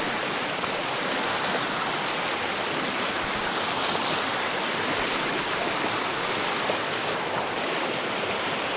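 Steady rushing of running water from a stream, even and unbroken.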